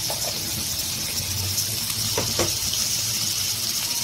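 Boiled water chestnuts frying in hot oil in a kadhai, a steady sizzle with a low hum beneath it. Two light knocks come a little past the middle.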